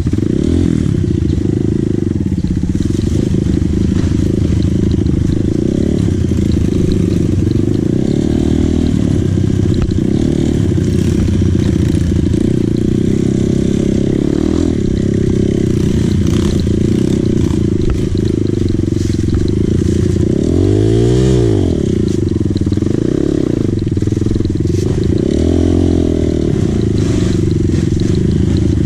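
Dirt bike engine running steadily under way, with the revs rising and falling briefly a few times about two-thirds of the way through.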